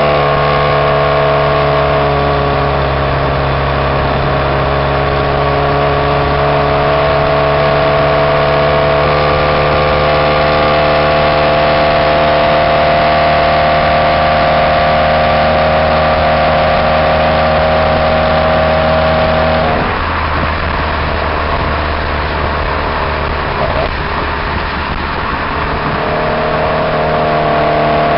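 Exhaust of a 2002 Pontiac Grand Am SE1's Ecotec four-cylinder, running with no catalytic converter or resonator, heard at the tailpipe while driving: a loud, steady drone at an even pitch. About twenty seconds in the note drops out abruptly into a rougher rumble, and the steady drone comes back near the end.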